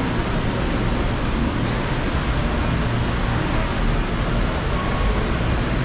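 Steady, even rushing of heavy rain together with city street traffic.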